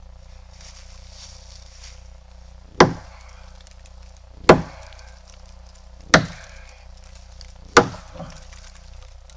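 Axe chopping into a tree branch: four hard, evenly spaced strokes about a second and a half apart.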